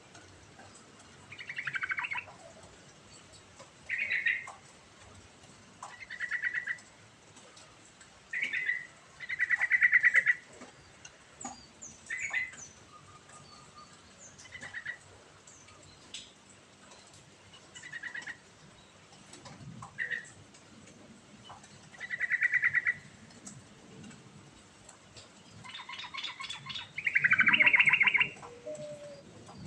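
Yellow-vented bulbul singing: short phrases of quick notes repeated every two seconds or so, with a longer, louder phrase near the end.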